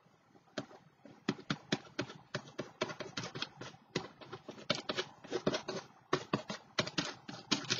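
A rapid, irregular run of sharp taps on a hard surface, several a second, starting about a second in.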